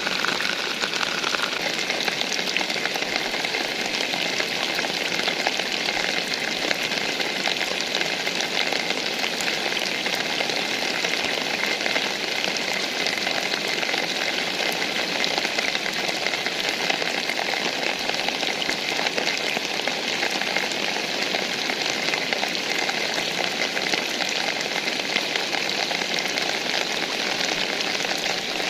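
Steady rain falling, a dense even patter of drops with no break.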